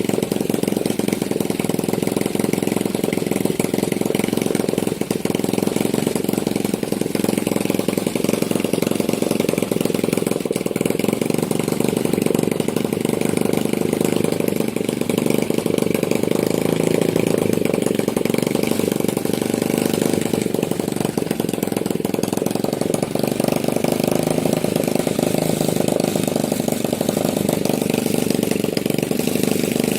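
Alpha 110cc single-cylinder four-stroke moped engine running steadily at an even, low speed.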